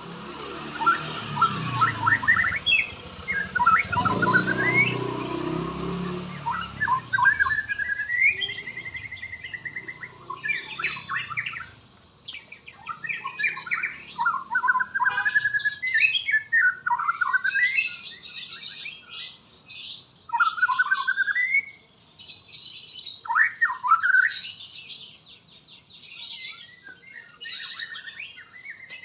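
Murai songbird (white-rumped shama) singing a long run of varied phrases: quick whistles that glide up and down, trills and chattering notes. A low rumble sits under the song a few seconds in.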